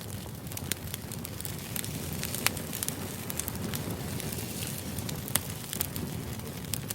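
Crackling fire ambience used as background noise: a steady low rumble with irregular sharp pops and crackles.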